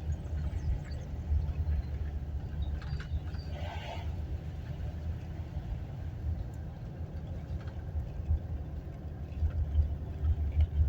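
A 2015 Toyota Hilux Vigo 2.5 L diesel pickup on the move: a steady low rumble from the running truck, with a short creak about four seconds in. The creak is the strange cracking noise the owner hears while driving and cannot explain.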